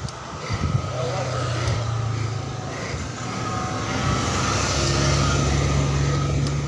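Car engine running steadily as a car passes close by, getting louder over the second half.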